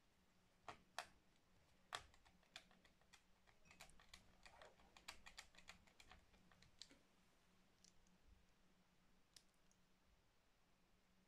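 Faint, irregular clicks and taps of small hard plastic and metal laptop parts being handled during reassembly, dense for the first several seconds and then only a few. A faint steady low hum runs underneath.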